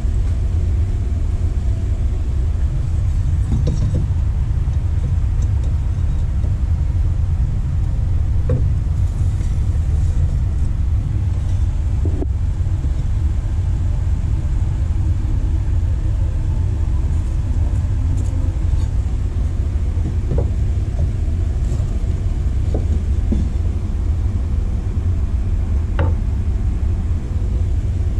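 A steady low rumble, with a few faint knocks and taps scattered through it.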